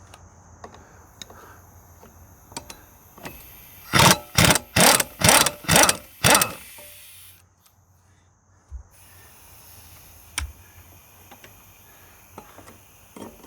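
Impact wrench fired in six short bursts about half a second apart, undoing the rear sprocket bolts on an ATV. Scattered metal clinks from tools are heard around it.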